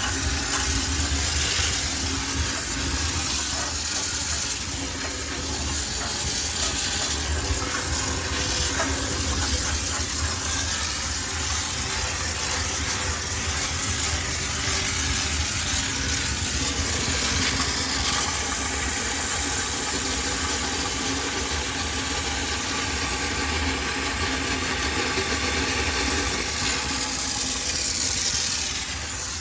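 High-pressure steam cleaner jetting steam: a steady, loud hiss over the low hum of the machine. A faint whine with several tones joins in a little past the middle.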